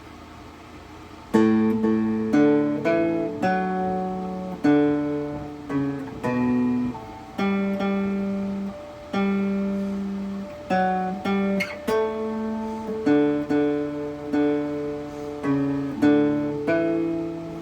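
Homemade coffee-can cigar box guitar (24-inch scale, diatonic frets, walnut bridge, piezo pickup) playing a slow melody of plucked, ringing notes and chords. The playing starts about a second and a half in.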